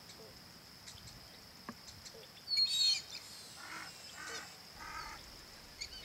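Birds calling in a marsh: a short, high whistled call about two and a half seconds in, then three evenly spaced, lower harsh notes, over a faint steady high tone.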